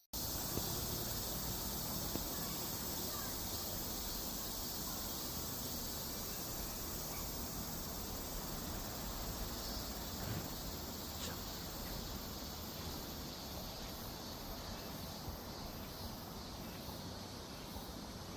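Cicadas singing in a steady, hiss-like buzz that fades slightly over time.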